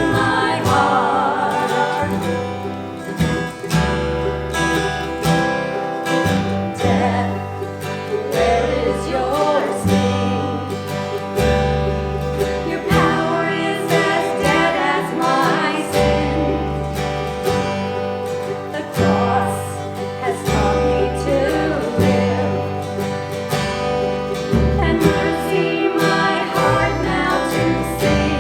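Live Christian worship song: a small vocal group singing over strummed acoustic guitar and a bass line.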